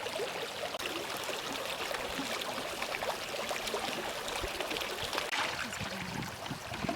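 Steady rush of running water with faint scattered clicks.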